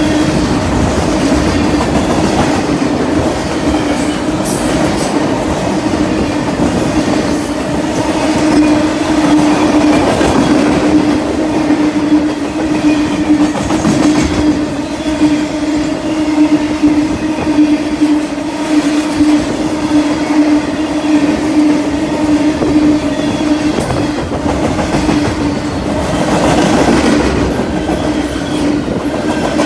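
Freight train of DODX military flatcars rolling past at close range, wheels clicking over the rail joints over a steady humming tone, with a few sharp knocks along the way.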